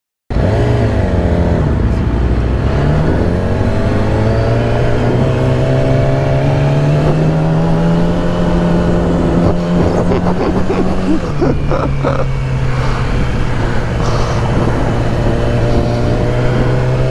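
2008 Yamaha R6's inline-four engine running while riding, its pitch climbing slowly as the bike gathers speed, then dropping at a gear change about eleven seconds in and climbing again.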